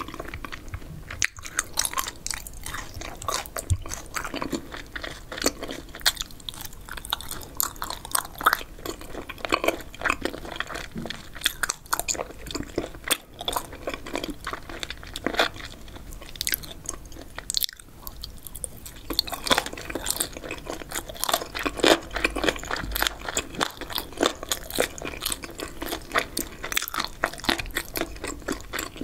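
A person chewing spicy Korean boneless chicken feet and pork skin close to the microphone: continuous crunchy, chewy mouth sounds made of many small crisp clicks.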